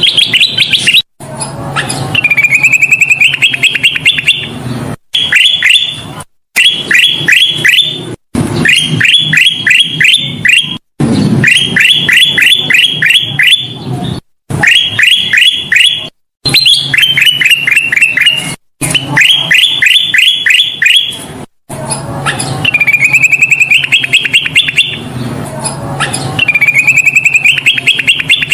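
Kutilang emas bulbul singing loudly in repeated fast phrases of rapid chirps, each phrase lasting a second or two with brief pauses between.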